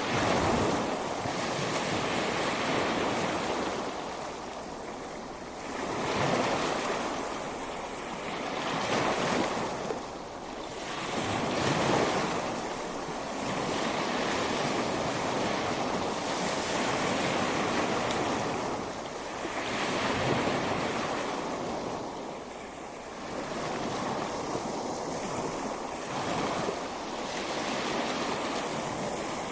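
Ocean waves breaking and washing up a beach, a continuous rush that swells and eases every few seconds, with wind on the microphone.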